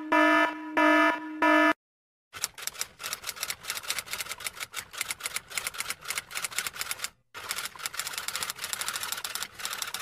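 Three short buzzer-like beeps, then, after a brief pause, a long run of rapid, dense clicking like typewriter keys that stops briefly once midway.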